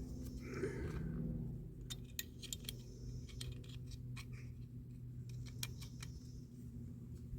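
Small metal parts and tools being handled on a workbench: a quick run of light clicks and clinks in the middle stretch, over a steady low hum.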